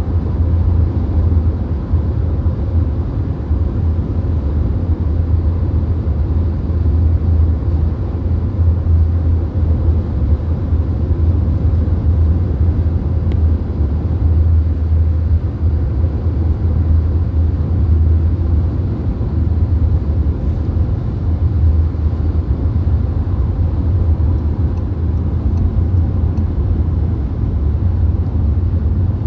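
Cabin noise inside a VW Golf cruising at motorway speed: a steady, even low rumble of tyres, engine and wind, with no changes.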